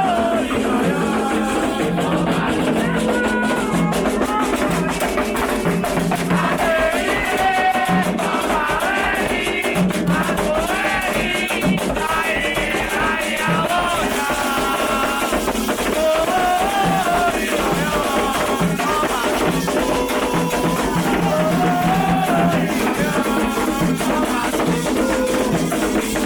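Candomblé ritual song: voices singing a chant over drums and a rattle in a steady, even rhythm.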